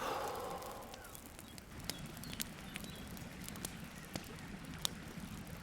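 Campfire crackling, with sharp scattered pops from the burning wood and a short hiss that fades in the first second.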